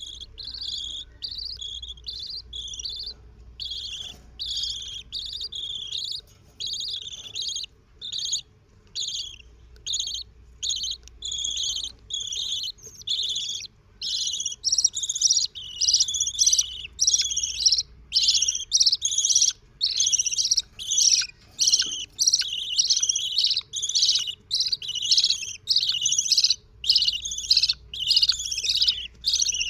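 Budgerigar chicks making repeated high chirping calls, about two a second, which grow louder about halfway through.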